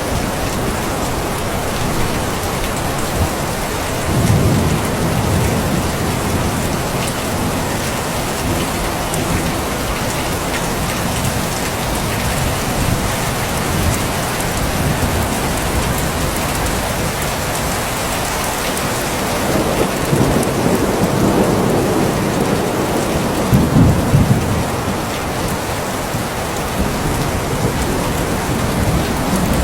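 Steady rain falling, with low rolling rumbles of thunder about four seconds in and again for several seconds past the twenty-second mark.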